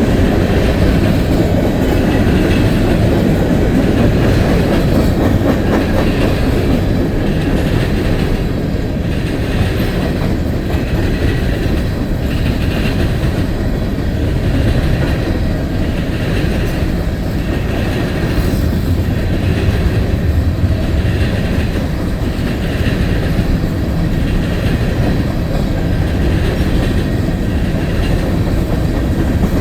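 CN freight train cars rolling past, a steady loud rumble of steel wheels on the rails. Over it runs a regular clickety-clack about once a second.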